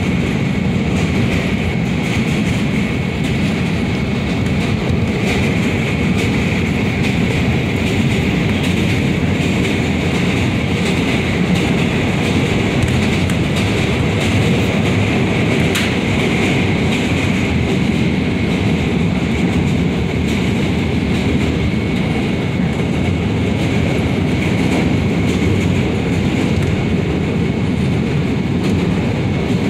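CTA 5000-series Bombardier rapid-transit railcar running at speed, heard from inside the car: a steady rumble of wheels on rail with a faint steady high-pitched tone, and one sharp click about sixteen seconds in.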